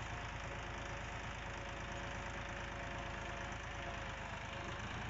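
Tractor engine running steadily at an even, low speed.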